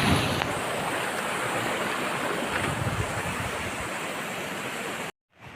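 Steady rushing of flowing floodwater, easing slightly and then cut off abruptly about five seconds in.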